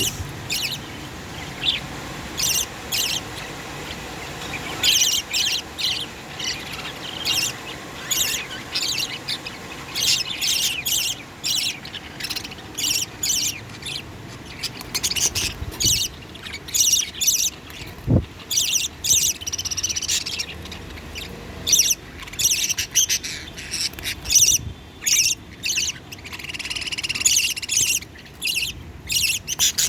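Budgerigars calling: many short, high chirps and squawks coming in quick runs.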